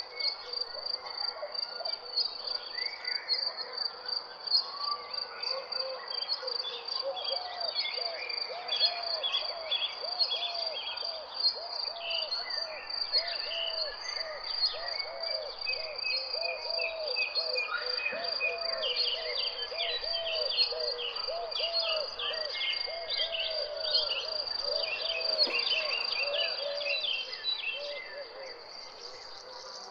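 Crickets trilling steadily on one high pitch, with birds calling over them: a long run of low, repeated notes, about two a second, and quick high chattering notes mostly in the second half.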